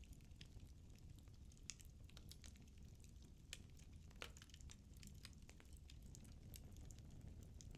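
Firewood burning in a fireplace: faint, irregular crackles and snaps over a low, steady rumble, with one sharper pop about four seconds in.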